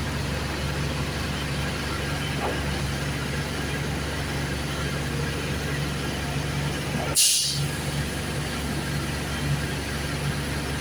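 A concrete pump truck's engine running steadily, with one short, sharp hiss of released air about seven seconds in.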